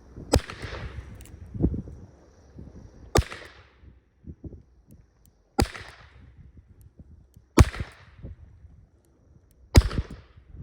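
Colt 1877 Lightning .38-calibre double-action revolver fired five times, one shot every two to two and a half seconds, each bang echoing briefly.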